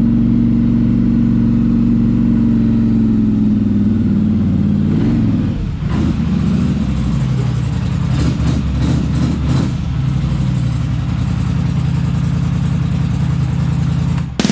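Polaris Sportsman 850 ATV's twin-cylinder engine idling through an aftermarket GSE Trail Tamer exhaust. It is revved once about five seconds in, then blipped several times in quick succession, and settles back to idle.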